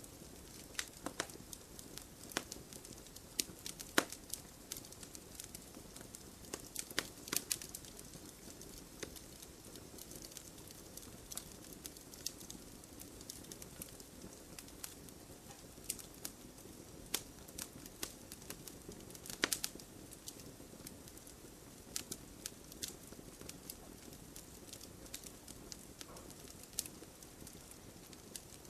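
Wood campfire crackling: irregular sharp pops and snaps over a soft, steady hiss, with a few louder snaps standing out.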